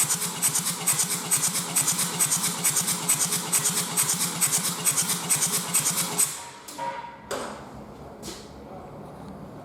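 Kia Sportage 1.7 CRDi (D4FD) four-cylinder common-rail turbodiesel running with an even, rhythmic diesel clatter, then shut off about six seconds in. A few clunks follow as it stops.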